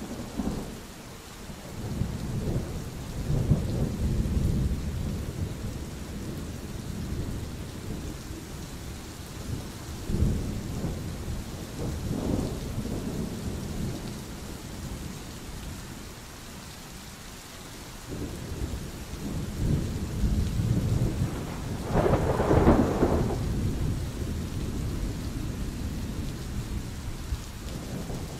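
Thunderstorm: steady rain hiss with rolling thunder rumbling on and off, the loudest peal about three quarters of the way through.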